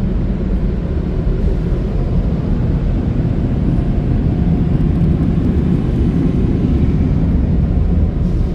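Steady low rumble of automatic tunnel car wash equipment, heard from inside the car's cabin as it rides through the wash.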